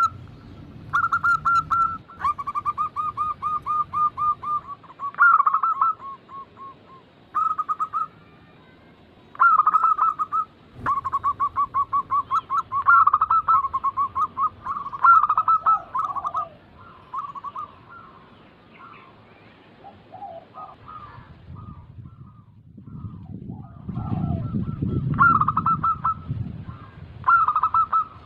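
Zebra doves (perkutut) cooing: repeated phrases of quick, rolling notes, one after another with short gaps. A low rumble comes in for a few seconds near the end.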